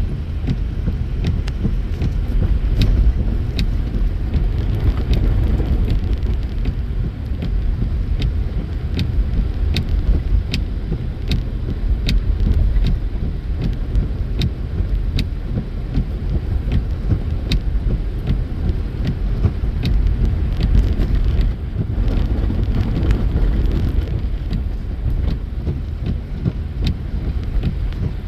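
Car driving on the highway, heard from inside the cabin: a steady low road and engine rumble, with scattered sharp ticks throughout.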